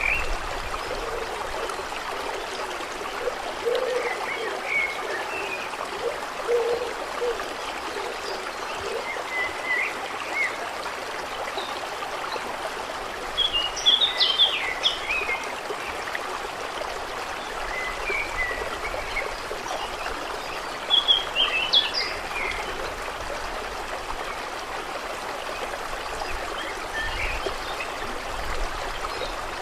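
Steady flowing water, with birds chirping now and then over it; the loudest bursts of chirps come about halfway through and again about two-thirds of the way in.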